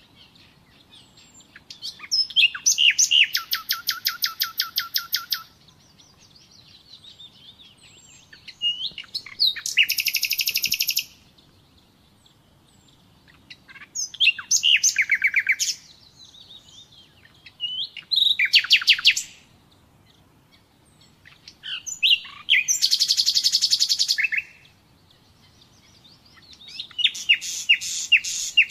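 Nightingale singing: six phrases of rapid repeated notes, each a few seconds long, with short pauses between them that hold only faint chirps.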